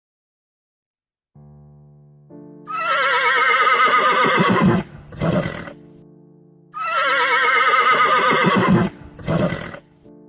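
Two long, loud, quavering animal calls, each followed by a short call, over soft background music with steady chords.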